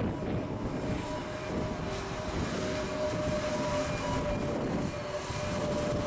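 Jet airliner engines running with a steady whine, behind heavy wind buffeting on the microphone.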